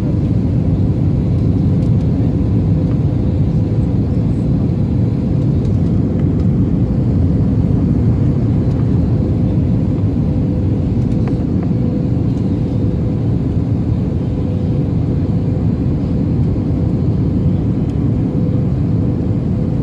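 Airbus A321-231 airliner heard from inside the cabin: a steady, even roar of engines and airflow, with a faint steady hum over it.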